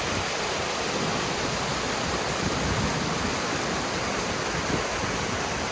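Steady rush of a small waterfall and a fast-flowing river in flood.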